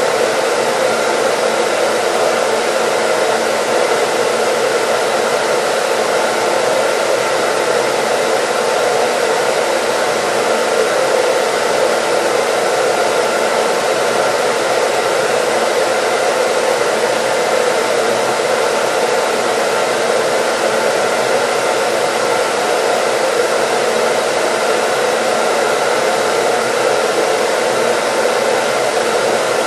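Hair dryer running steadily: a continuous, even rush of air with faint steady hum tones from the motor, unchanging throughout.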